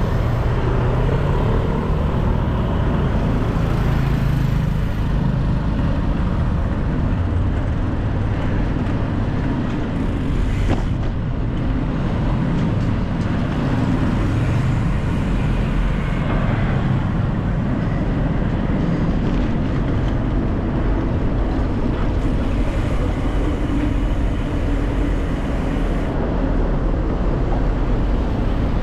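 Steady city road traffic: motor vehicles running close by, with a deep continuous rumble throughout.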